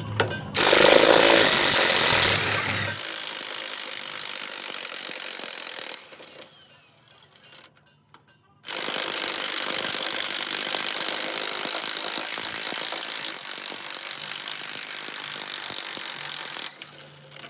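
A power tool working in two long, steady stretches, stopping for about two and a half seconds partway through.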